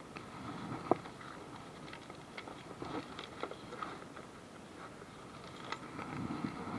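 Scattered light clicks and taps, the sharpest about a second in, over a faint steady background.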